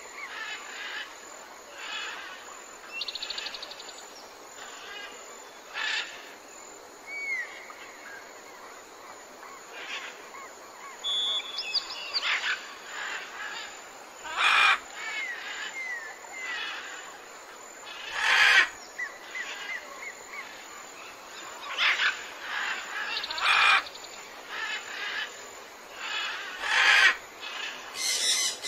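Outdoor bird chorus: several birds calling and chirping, with short whistled glides and trills and a few louder sharp calls.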